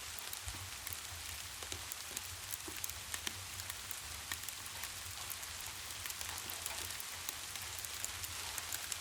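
Steady rain, a continuous hiss with many small, sharp ticks scattered through it, over a low, steady rumble.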